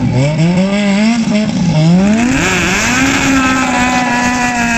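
Fiat Uno Turbo's engine being revved hard: it climbs, dips briefly, then climbs again and holds at steady high revs.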